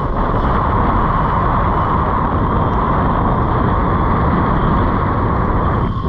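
Steady, loud wind rumble on the microphone mixed with surf noise.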